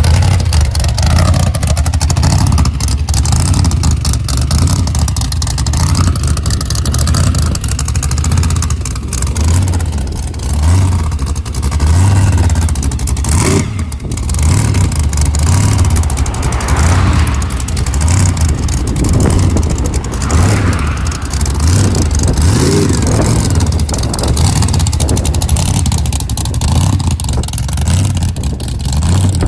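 Front-engine dragster's engine running loudly with a deep, pulsing throb, and a couple of brief throttle blips partway through.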